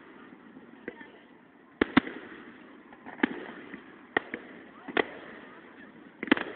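Fireworks going off: a string of about eight sharp bangs, roughly one a second, several coming in quick pairs.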